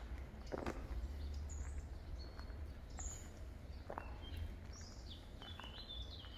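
Songbirds chirping and calling in short, repeated phrases, over a steady low rumble.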